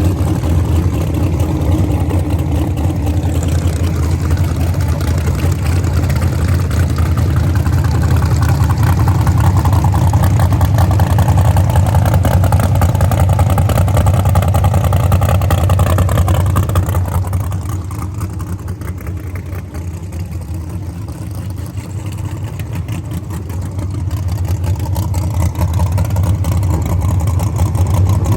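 Drag race car engine running with a deep, steady rumble. It eases off a little past the middle, then builds again near the end.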